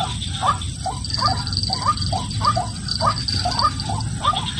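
White-breasted waterhen calls: a fast, even series of short rising notes, two to three a second, over a steady low hum.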